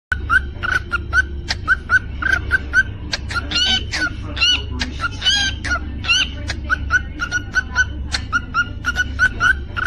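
Cockatiel singing: a quick run of short repeated chirps, about three to four a second, broken in the middle by a few longer warbling whistles.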